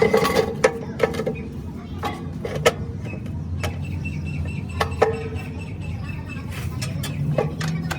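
Workshop machinery running with a steady low hum, overlaid by repeated sharp clicks and knocks, with a thin high whine through the middle.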